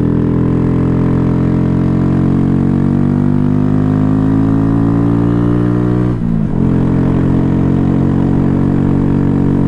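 Honda Grom's single-cylinder engine running under way, its pitch climbing steadily as the bike gains speed, then a short break and drop about six seconds in, as at a gear change, before running steady again.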